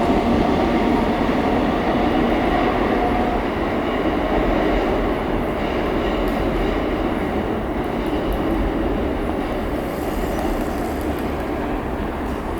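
A Merseyrail PEP-family electric multiple unit (Class 507 or 508 stock) running through the station, a continuous rumble of wheels on rails that eases off slightly near the end.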